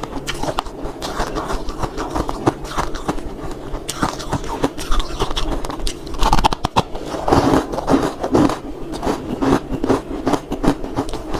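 Ice being crunched and chewed close to a microphone: a dense, irregular run of cracks and crunches.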